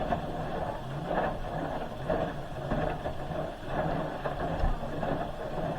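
Hoover H-Wash 300 Plus washing machine tumbling its load with water in the drum during a rinse: the motor whirs in stretches and the water sloshes.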